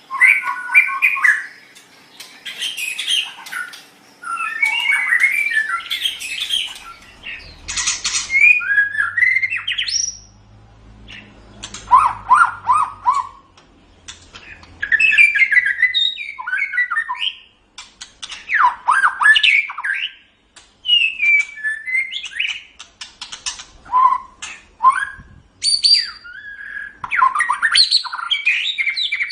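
White-rumped shama singing a varied song: phrases of rich whistles, quick rising and falling runs and sharp harsh notes, delivered in bursts with short pauses between them.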